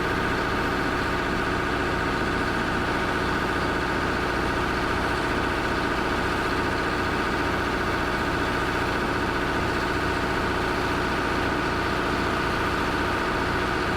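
A vehicle engine running steadily at idle, with an even, unchanging drone.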